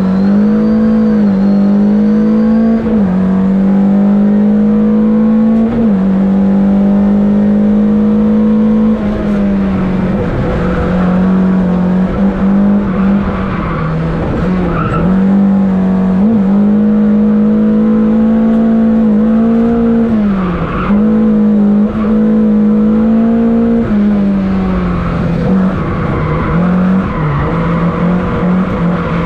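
Lada VFTS rally car's four-cylinder engine run hard at high revs, heard from inside the cabin. Its note holds high and drops briefly many times over, as the driver shifts gears and brakes for the bends.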